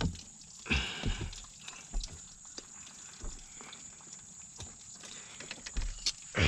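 Light knocks, clicks and handling noises, a few sharper ones about a second in and near the end, as the oil dipstick is pulled from a Honda Rancher 420 ATV's engine and checked, with the engine not running.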